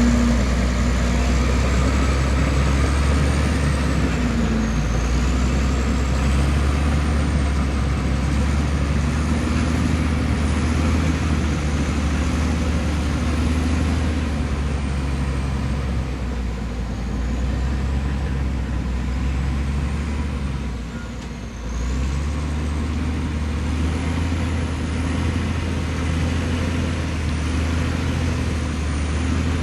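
Komatsu D65E bulldozer's diesel engine running steadily under load, with a thin high whine that wavers up and down. About two-thirds of the way through the engine eases off briefly, then picks back up.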